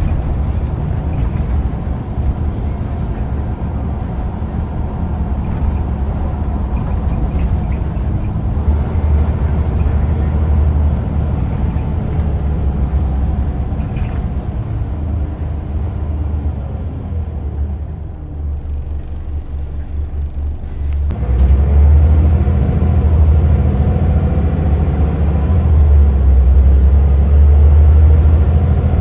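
Diesel engine of a Scania L94UA Wright Solar Fusion articulated bus running under way, a steady low drone. About two-thirds of the way through it eases off for a few seconds, then pulls again, louder.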